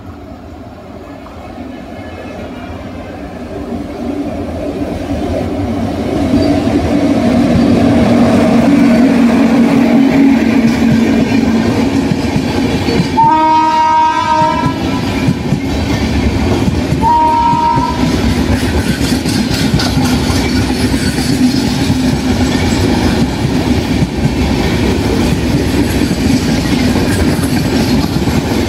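Indian Railways express train approaching and passing close by: a rumble that grows steadily louder, then two blasts of the locomotive's horn about halfway through, a longer one and a shorter one some three seconds later. After that comes the steady rush of the LHB coaches' wheels on the rails.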